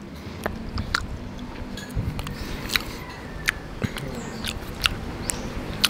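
A person chewing soft durian flesh close to the microphone, with a low wet mashing and sharp mouth clicks and smacks scattered through, about ten of them.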